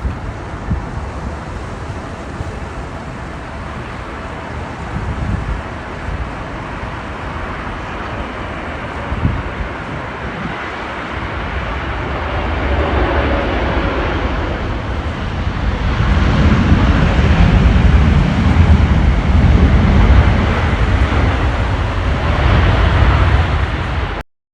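Boeing 777 jet engines on approach growing steadily louder, loudest in the last third, under strong gusts of wind buffeting the microphone.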